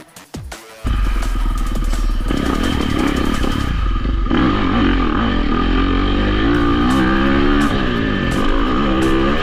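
Dirt bike engine running hard after a near-silent first second, its revs rising and falling repeatedly as it is ridden.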